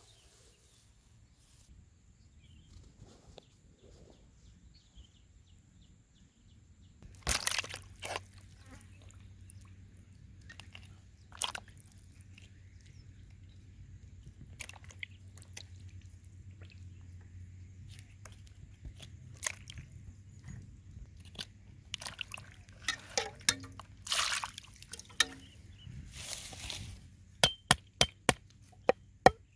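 Scattered knocks, clatters and rustles of handling food and utensils, then near the end a knife chopping steadily on a board, about three strokes a second.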